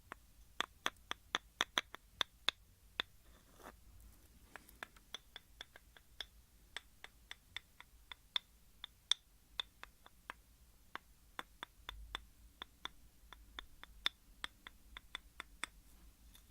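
Light, sharp tapping on a small hard object, a few taps a second at uneven spacing, with a brief pause about three seconds in.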